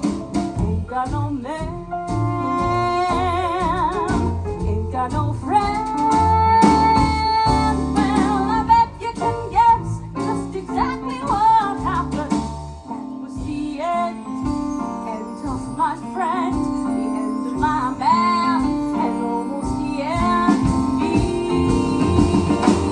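Live jazzy blues band playing an instrumental break over a walking bass line, with a lead line of wavering held notes above it.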